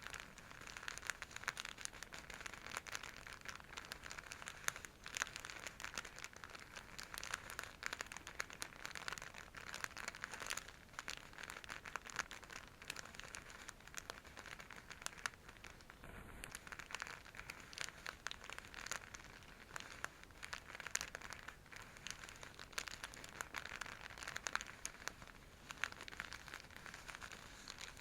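A scratchy silk bag being scratched and scrunched close to the microphone: a continuous dense crinkling crackle of many small clicks.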